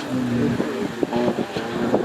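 Off-road 4x4 engine running, with irregular knocks and clunks throughout.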